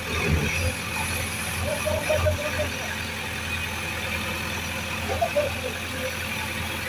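A vehicle engine idling steadily, a low even hum with a few brief faint wavering sounds over it about two and five seconds in.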